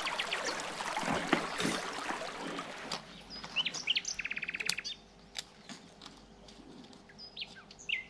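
A small songbird chirping and trilling: short high chirps, and about four seconds in a fast trill of about a dozen notes. A soft rushing hiss runs under it for the first three seconds.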